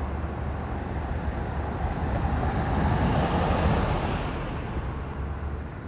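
Road traffic noise: a vehicle passing, its tyre and engine noise swelling to a peak about three and a half seconds in, then fading, over a low rumble.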